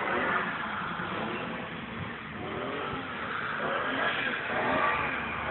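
Car engine revving, its pitch rising and falling repeatedly as the car is held in a drift.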